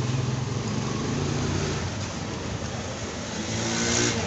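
An engine running steadily, a low hum under a broad hiss that grows a little louder near the end.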